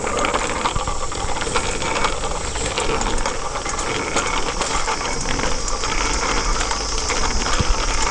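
Bicycle riding noise picked up by a head-worn camera: a steady rushing hiss and low rumble with many small irregular rattles and clicks from the moving bike.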